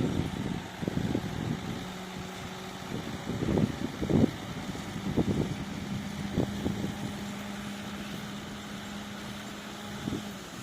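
Diesel engine of heavy earthmoving equipment running with a steady hum, heard through irregular low buffeting.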